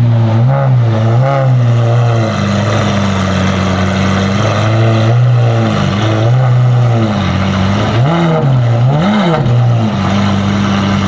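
A car engine idling, with several quick revs that rise and fall straight back to idle, a couple near the start and two more about eight and nine seconds in.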